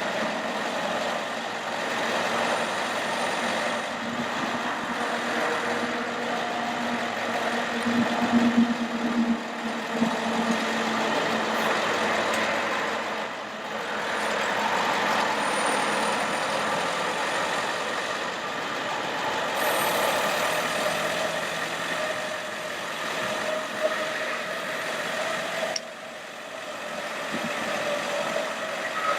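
A 1999 Ford F550 bucket truck's engine runs steadily with the PTO driving the hydraulic system while the Altec AT37-G boom is worked through its functions. Whining tones shift in pitch as the functions change, and the level dips briefly about halfway through and again near the end.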